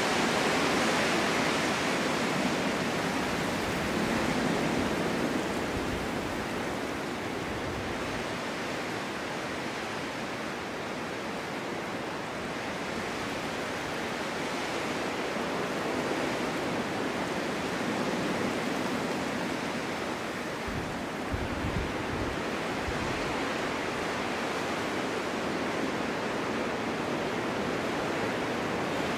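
Snowstorm wind blowing in a steady rushing hiss that swells and eases slowly, with a few low gusty rumbles about two-thirds of the way in.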